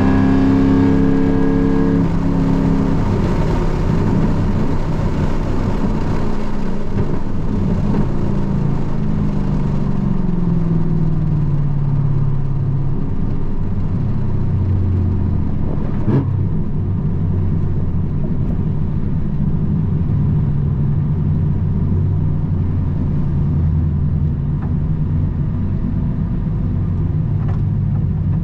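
Car engine heard from inside the cabin on a racetrack, running at high revs at first, then falling in pitch over several seconds and settling into a lower, steadier drone. A single sharp click about halfway through.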